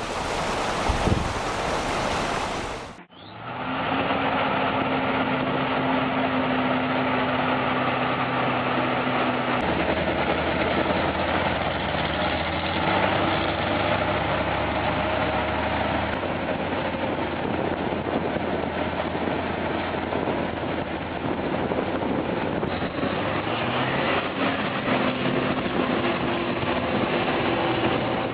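About three seconds of wind and water noise, then a heavy truck engine running steadily, its tone shifting a few times as it works.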